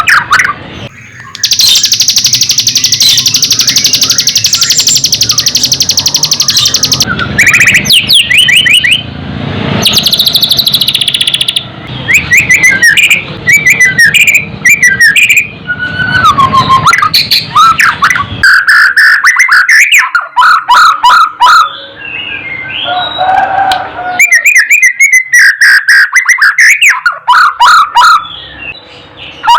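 White-rumped shama singing a loud, varied song of whistled and chattering phrases, with a long buzzing rattle in the first few seconds.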